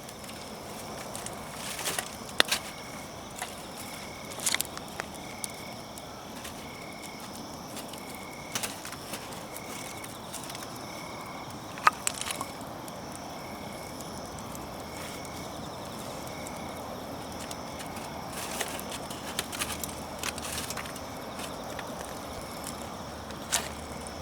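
Wood campfire crackling: irregular sharp pops and cracks over a steady hiss, the loudest pop about halfway through. A short high call repeats about every three-quarters of a second in the background for most of the time, then stops.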